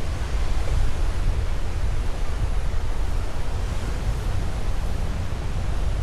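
Sea surf washing on a beach, a steady roar with a heavy low rumble of wind buffeting the microphone.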